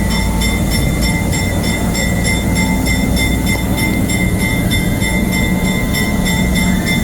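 Train running with a steady low rumble and a steady high whine, heard from an open caboose.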